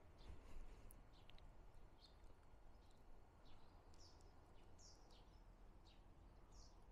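Quiet outdoor ambience: scattered short, high bird chirps over a faint low rumble.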